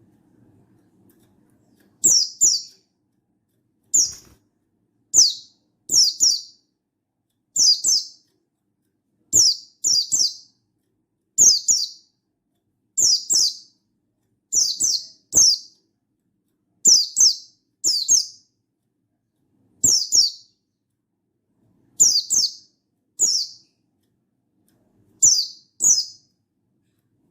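Buxtoni white-eye (pleci) giving short, high calls that sweep downward, repeated every second or two, often in quick pairs. It starts about two seconds in.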